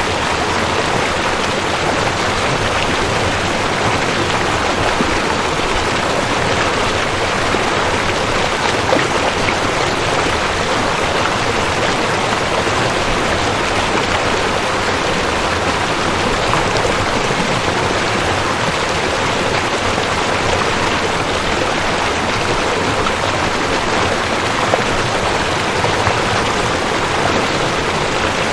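A rushing creek: fast water running over rocks in a steady, unbroken rush.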